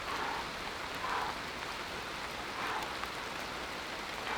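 Steady rain falling, an even hiss, with three soft, short swells of noise over it.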